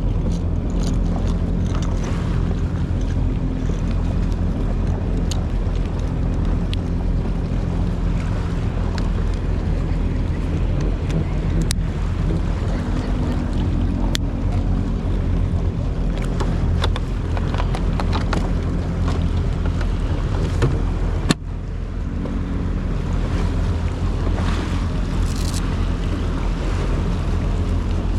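Jet ski engine running steadily at speed, with water spray hissing and wind buffeting the microphone. A single sharp knock comes about two-thirds of the way through.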